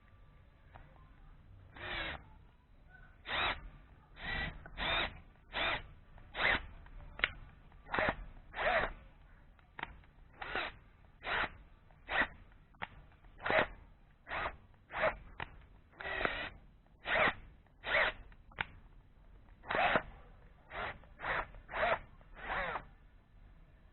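Power drill run in short trigger bursts, more than two dozen of them, roughly one a second with uneven pauses between.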